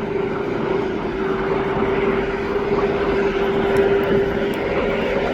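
Jet airliner engines running, a steady loud roar with a constant hum.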